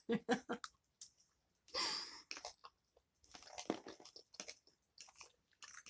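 A person chewing food close to the microphone: soft, scattered mouth clicks and smacks, with a few brief louder patches.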